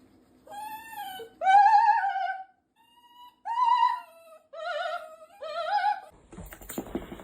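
A dog howling in about six separate high, wavering notes, each under a second long.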